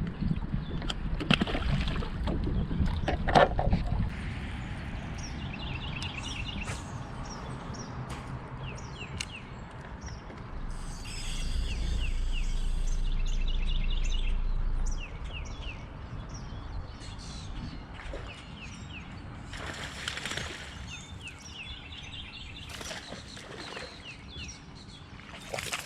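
Songbirds chirping in repeated short series. There are a few knocks in the first few seconds, and a louder low rumbling stretch lasts about four seconds in the middle.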